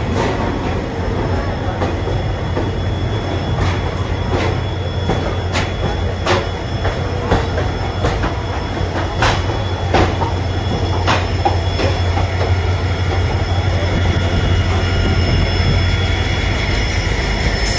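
Indian Railways passenger train rolling slowly out of a station, heard from an open door of a general-class coach. Wheels clack irregularly over rail joints and points, about once a second, over a steady low rumble. A thin high wheel squeal grows stronger toward the end.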